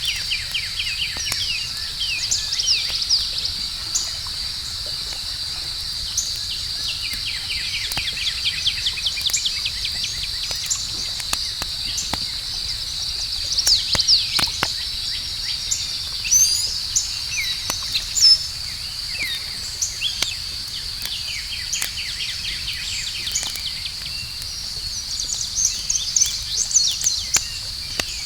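Outdoor campfire ambience: a steady high cricket trill with runs of quick bird chirps over it, and the scattered sharp pops and crackles of burning wood, two of them louder about halfway through.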